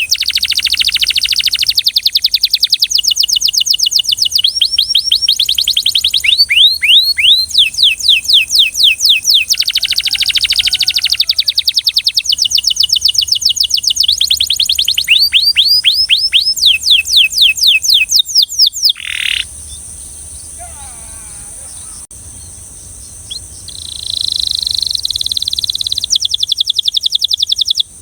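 Canary singing: fast trills of rapidly repeated high notes in phrases that change speed and pitch one after another. A few seconds' pause comes about two-thirds through, then a smoother rolling phrase near the end.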